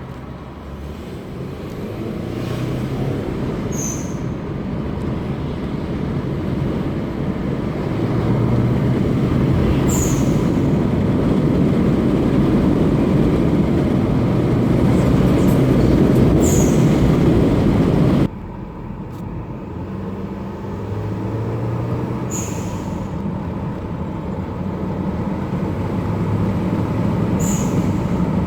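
Subaru Forester XT turbo engine and road noise building steadily, with a short high-pitched chirp about every six seconds, five in all. The chirps are the aftermarket HKS SQV4 blow-off valve, converted to vent to atmosphere, dumping boost. The overall sound drops suddenly about two-thirds of the way through, then builds again.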